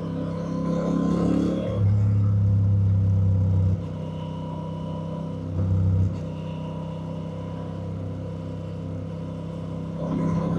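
Honda Rebel 1100's parallel-twin engine running under way, with a louder spell of throttle about two seconds in lasting nearly two seconds, and a brief one about six seconds in, before settling back to a steady cruise.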